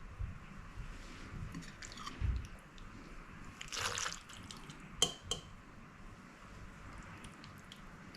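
Soft wet squelching of sauced macaroni, with a wet swish just under four seconds in and two sharp clicks of a utensil about a second later, the first with a brief ring.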